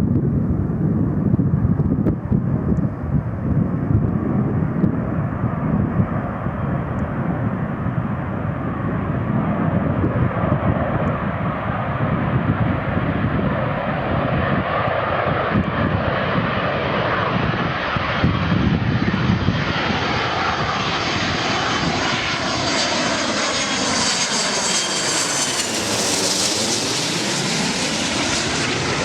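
Boeing 737-200's Pratt & Whitney JT8D turbofans on a landing approach, growing brighter and more hissing as the jet closes in. It passes overhead with a sweeping whoosh about 26 seconds in.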